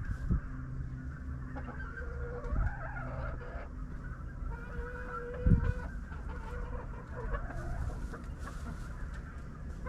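Chickens clucking and calling, with drawn-out calls about two and five seconds in. A few low thumps, the loudest about five and a half seconds in.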